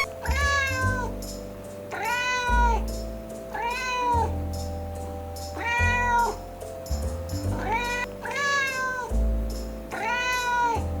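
A domestic cat meowing over and over: six similar meows, each under a second long and rising then falling slightly in pitch, coming about every two seconds, over background music with steady held tones and a low bass.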